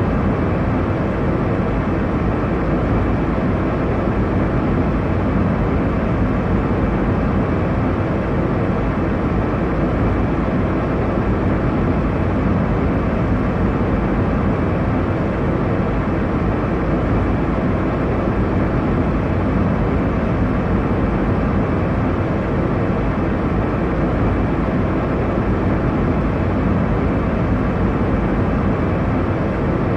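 Airliner cabin noise in cruise: a steady, even rumble of engine and airflow noise, strongest in the low end, with no changes.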